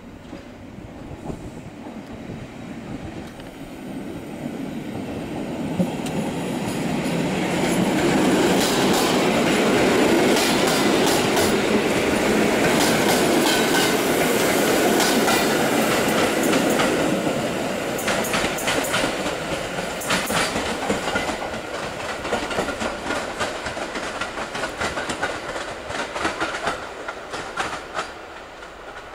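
EN57 electric multiple unit passing at speed. It grows louder over the first several seconds, is loudest as the carriages go by, then fades as it pulls away, with a steady clickety-clack of wheels over the rail joints.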